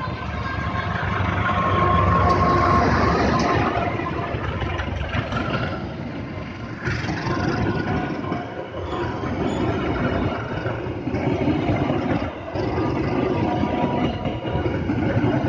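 A parcel freight train passing close by, its wheels rumbling and clattering over the track, loudest about two seconds in and running on as the wagons roll past.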